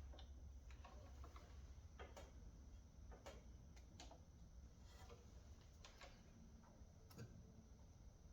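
Near silence with faint, irregular clicks and taps, about ten in all, from a multimeter and its probes being handled to check a lawn tractor battery's voltage. A faint low hum sits underneath.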